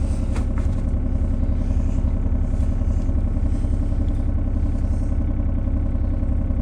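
Mini excavator's small diesel engine running steadily, with a couple of light clicks in the first half second.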